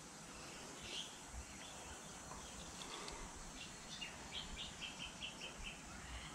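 Faint birdsong over low background noise: a short call about a second in, then a quick run of short chirps, about five a second, stepping slightly down in pitch, a little after four seconds in.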